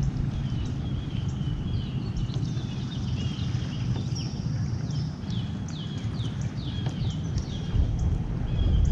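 Birds chirping: a run of short high notes, each falling in pitch, repeated about every half second, over a steady low rumble.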